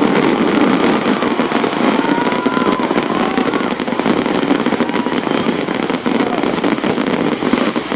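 Fireworks display going off in a dense, continuous barrage of rapid crackling and popping, loud and without a break.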